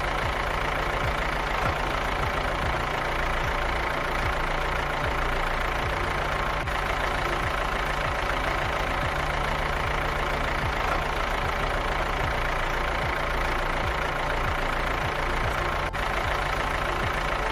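Tractor engine running steadily, an even low engine hum with a regular beat.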